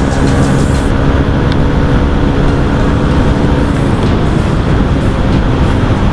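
Motorcycle underway, its aftermarket full-system exhaust running loud with the dB killer fitted, mixed with a dense rush of wind and road noise. A steady engine note stands out in the first half, then sinks into the rushing noise.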